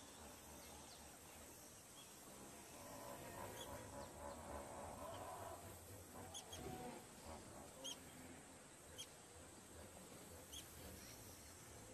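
Near silence: faint outdoor ambience with a few short, faint high chirps of birds spread through it.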